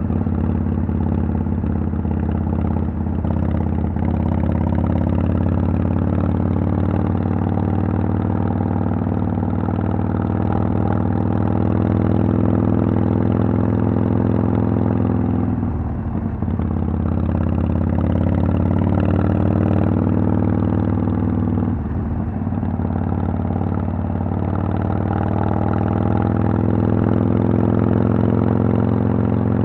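Harley-Davidson Sportster XL883L's air-cooled 883 cc V-twin running under way through Vance & Hines Twin Slash exhaust pipes, a steady engine note whose pitch drops and climbs back twice, about halfway through and again a few seconds later.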